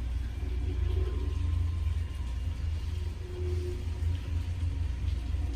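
Storm wind buffeting the microphone: a low, uneven rumble that swells and dips.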